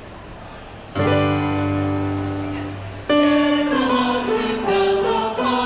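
A chord sounds about a second in and fades away, giving the starting pitch, then a choir comes in singing about three seconds in.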